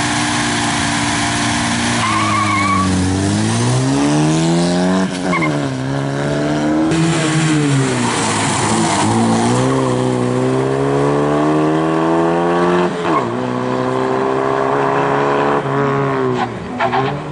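A Moskvich's four-cylinder engine revving hard as the car launches and accelerates, its pitch climbing and dropping back at each gear change several times over, with a short tyre squeal about two seconds in.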